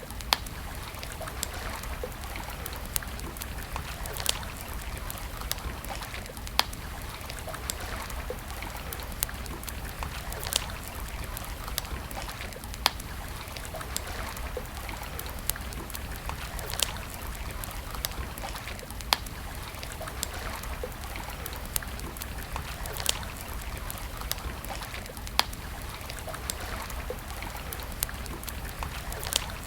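Campfire crackling: wood burning with sharp pops about once a second and smaller snaps between, over a steady background hiss.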